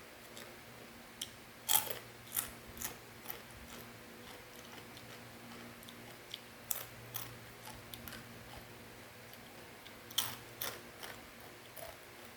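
Crunchy fried macaroni snack being chewed close to the microphone: scattered sharp crunches at an uneven pace, the loudest about two seconds in and about ten seconds in, over a faint steady hum.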